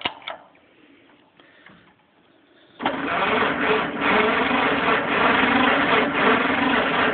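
1953 John Deere 40C crawler's two-cylinder engine being cranked for a cold start. A few clicks come first, then the loud cranking begins suddenly about three seconds in and keeps going steadily. The engine has not caught yet: the fuel is only turned on afterwards.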